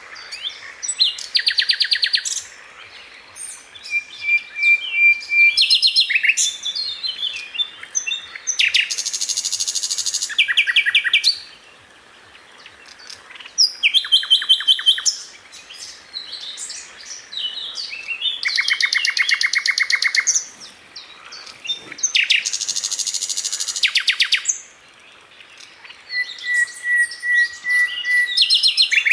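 Sikatan Londo flycatcher singing: bursts of very rapid, evenly spaced high notes, each about two seconds long, broken up by short chirps and a couple of held thin whistles.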